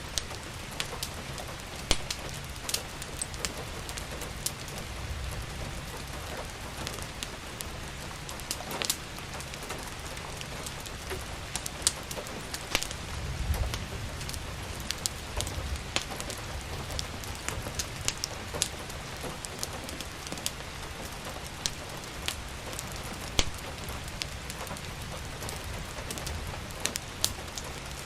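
Steady rain falling, mixed with a crackling wood fire whose sharp pops and snaps come at irregular moments throughout. A low rumble swells briefly about halfway through.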